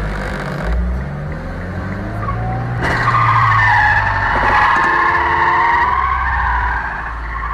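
Car tyres squealing in a skid, a loud wavering squeal that starts about three seconds in and fades near the end, over the low rumble of a car engine.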